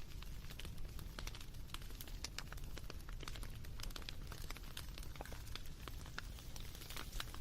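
Wood fire crackling: a steady low rumble with many irregular sharp pops and snaps.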